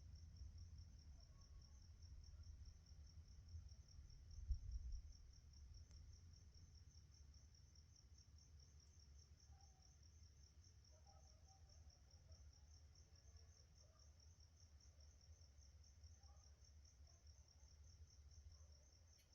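Crickets chirping in a steady, evenly pulsing high trill, faint overall. Under them is a low rumble that swells briefly about four to five seconds in.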